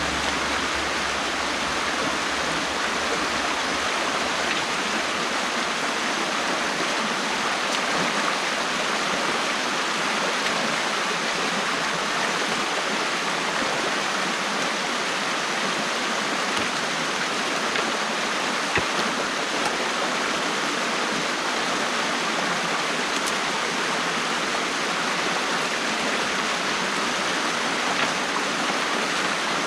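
Water rushing steadily through the opened gap in a beaver dam, an even, unbroken flow. One small knock about nineteen seconds in.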